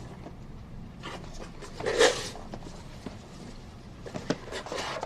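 Soft rustling and a few light clicks of small items and packaging being handled, with a louder rustle about two seconds in.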